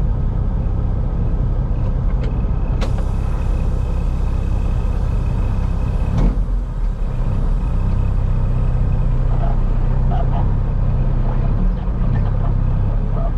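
Semi truck's diesel engine running with a steady low rumble, heard from inside the cab. About three seconds in, a hiss with a steady high tone starts and cuts off sharply about three seconds later, after which the engine's pitch comes through more clearly.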